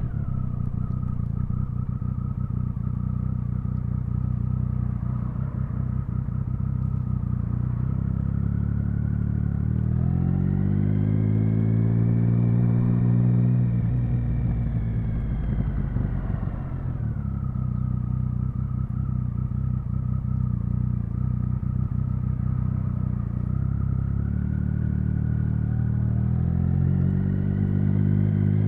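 Triumph Speed Triple 1050's inline three-cylinder engine pulling steadily at low revs while ridden. About a third of the way in the revs climb, hold briefly and drop back, and near the end they begin to climb again.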